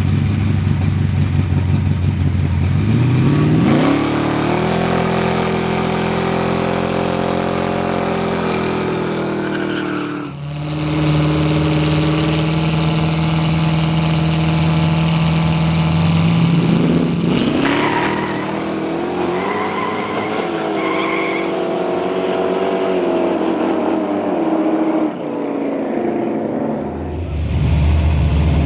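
Street drag-race car engines running hard: the engine note climbs steeply twice and holds high for several seconds each time, with a lower steady engine note in between and again near the end.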